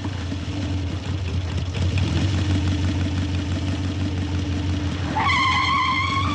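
Motorcycle engine running steadily as the motorcycle with sidecar rides up. About five seconds in, a high tone starts with a short upward glide, then holds steady for over a second.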